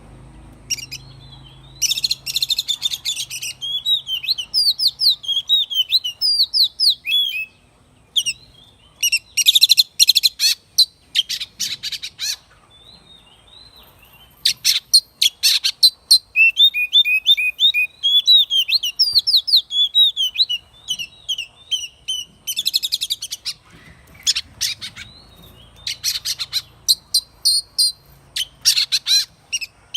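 Oriental magpie-robin singing: varied phrases of clear whistled notes with quick slides up and down, broken several times by harsh, scratchy rattles, with short pauses between phrases.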